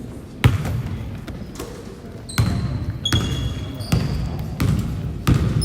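Basketball dribbled on a gym floor, about six bounces at an uneven pace, the first the loudest, with short high sneaker squeaks between them.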